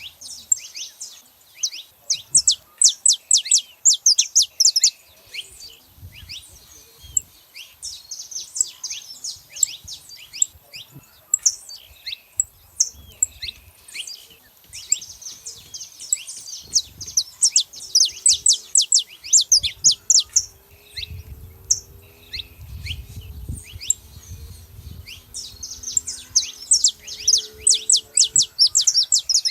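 A flock of saffron finches chirping together in rapid bursts of short, high notes, many birds overlapping, busiest at the start and again near the end.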